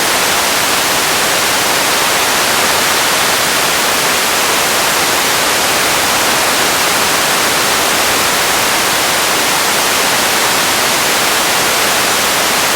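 Radio static: a steady, even hiss with no tones or breaks, strongest in the upper range.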